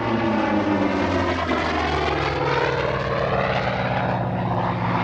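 Vought F4U Corsair's Pratt & Whitney R-2800 radial engine and propeller in a display pass, running steadily. The engine note changes pitch about two seconds in.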